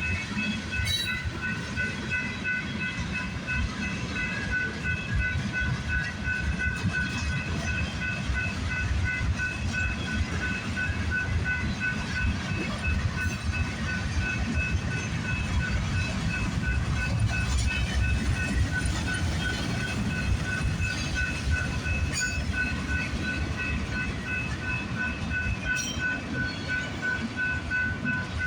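Freight train cars rolling past with a steady low rumble, while a level-crossing bell dings in an even rhythm about twice a second.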